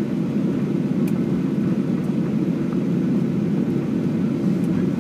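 Steady low rumble of jet airliner cabin noise while the plane taxis after landing, engines at idle.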